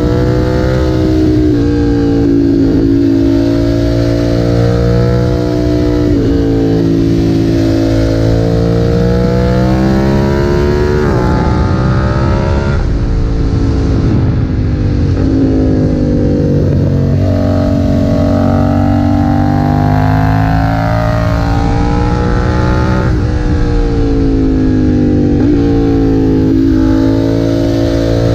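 BMW F900R's parallel-twin engine through a Leo Vince aftermarket exhaust, riding hard: the exhaust note climbs in pitch under throttle, drops sharply at each upshift, and falls away on deceleration, several times over.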